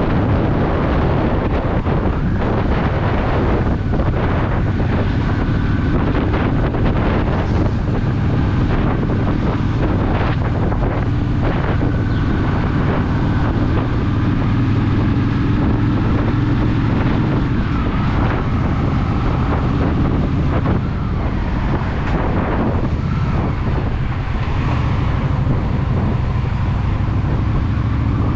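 Honda Shadow VT750's V-twin engine running steadily under way, with strong wind rushing over the microphone.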